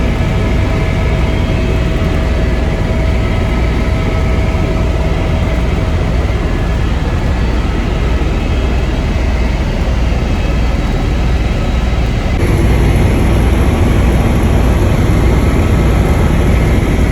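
Helicopter in flight: a steady engine and rotor drone with a low, rhythmic beat underneath. The sound shifts abruptly about twelve seconds in.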